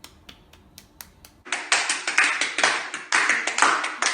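Hands clapping to imitate falling rain: light, sparse taps at first, then loud, irregular clapping from about a second and a half in.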